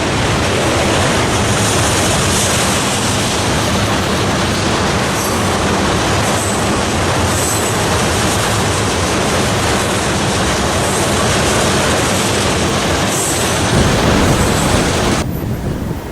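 Freight train passing close by: a loud, steady rumble of wheels on rail. It cuts off abruptly about fifteen seconds in.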